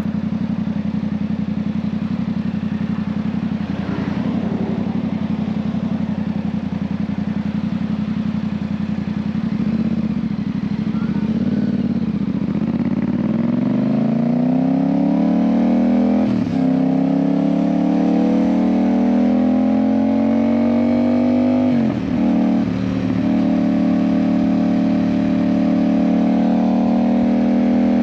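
Yamaha MT-07's 689 cc parallel-twin engine through an IXIL aftermarket exhaust, running at steady low revs, then accelerating from about 12 seconds in with the note climbing. The climb breaks briefly about 16 and 22 seconds in; at the second break the pitch steps down as the rider shifts up.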